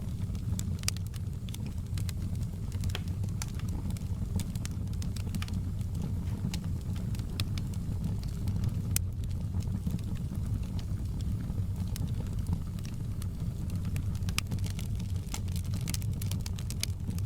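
Wood fire burning in a fireplace: a steady low rumble of the flames under frequent, irregular sharp crackles and pops, which come thicker near the end.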